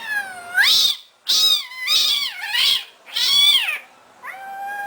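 Domestic cat meowing repeatedly: about five high-pitched, drawn-out meows in quick succession, each rising and then falling in pitch.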